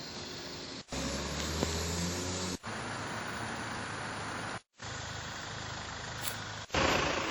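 Street traffic noise and a car engine idling, broken into several short clips cut off abruptly one after another.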